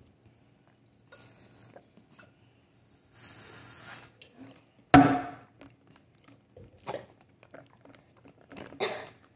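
Hard breathing in and out after chugging a bottle of Gatorade, with a sharp knock about five seconds in and a few small clicks after it.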